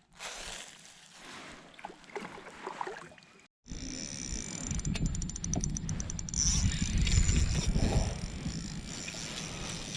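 Quiet water and handling sounds, then, after a break, a fishing reel's drag clicking rapidly with a high whine as a hooked carp pulls line off, over low handling rumble.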